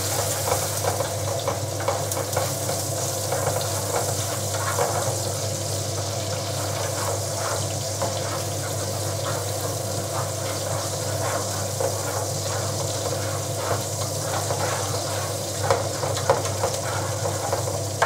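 Onion sizzling in olive oil in a metal oven pan on the hob, stirred with a spatula that scrapes and taps against the pan, more often near the end.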